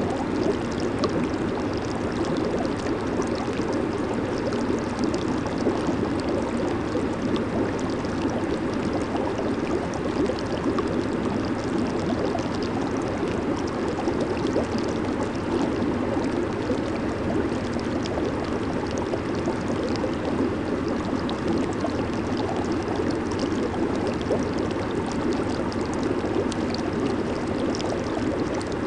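Jacuzzi jets churning and bubbling the water in a steady, unbroken rush.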